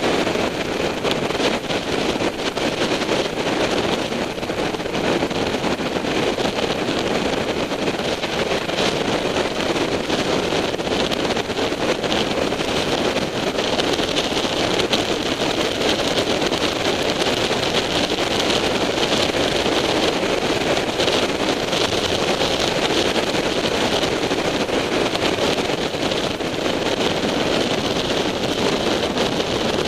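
Steady wind rush buffeting an onboard camera's microphone on a sportbike at road speed, with the motorcycle's running and road noise blended underneath.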